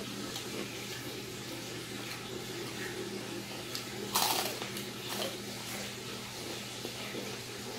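Close-miked bite into crispy fried chicken skin, with one loud crunch about four seconds in, then chewing, over a steady hiss and a faint low hum.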